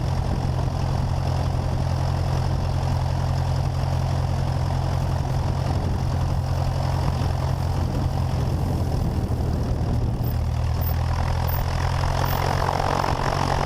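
Cessna 172's piston engine and propeller idling steadily while holding short before takeoff.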